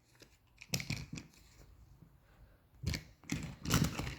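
A few short clicks and knocks of small objects being handled: a couple about a second in, then a closer cluster near the end.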